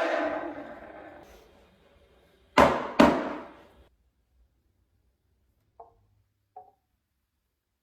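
A hissing, whirring noise fades out over the first two seconds, then two sharp knocks about half a second apart, the loudest sounds here, each with a short ringing tail, followed a few seconds later by two faint taps.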